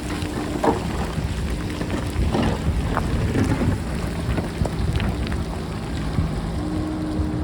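JCB backhoe loader's diesel engine running steadily, with wind buffeting the microphone. Scattered knocks and clatter of rock, the sharpest a little under a second in and a cluster of them around two to three and a half seconds in.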